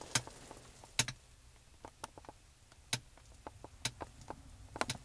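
Irregular faint clicks and taps from a handheld camera being handled inside a car, the loudest about a second in, over a faint low hum.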